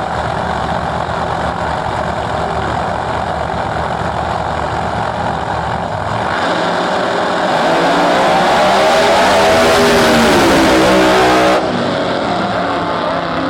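Drag race car engine running steadily, then from about six seconds in getting louder and revving with its pitch rising as the car accelerates. It cuts off suddenly near the end.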